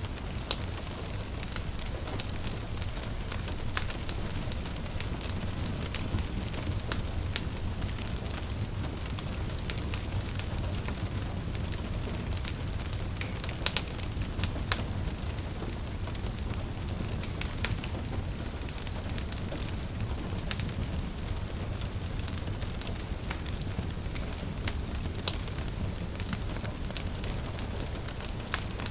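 Wood fire crackling in a fireplace, with irregular sharp pops and snaps over a steady low rumble, and gentle rain in the background.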